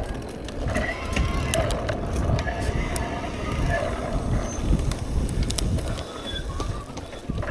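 Mountain bike being ridden over a wet, slick trail: steady rumble of tyres and wind on the mic, with scattered clicks and rattles from the bike over roots and rocks.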